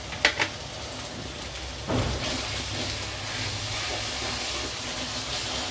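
Onions, ginger-garlic paste and whole spices sizzling in hot oil in a steel kadhai on high heat, stirred with a steel spatula that knocks and scrapes the pan about two seconds in.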